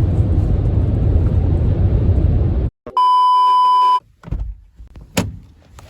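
Steady low road noise inside a car's cabin at highway speed, cut off about two and a half seconds in. Then a loud, steady beep lasting about a second, followed by faint clicks and a single sharp knock near the end.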